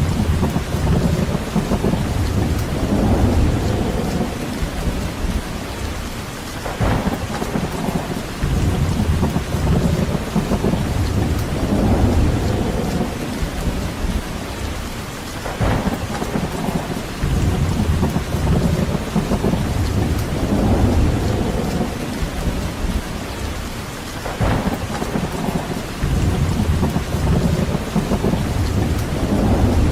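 Steady rain with wind in trees, the low end swelling and easing in deep rumbling surges every few seconds.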